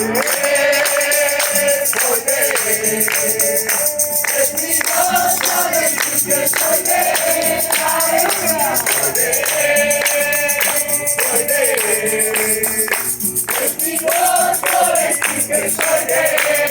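Gospel hymn music with a tambourine jingling steadily and a group singing the melody.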